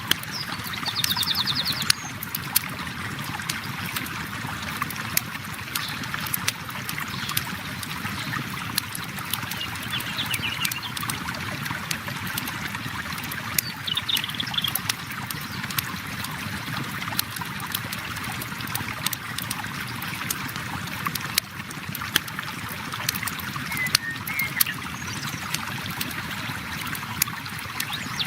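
A river flowing steadily, with a wood campfire crackling over it in many small sharp pops. A few brief bird calls come in now and then.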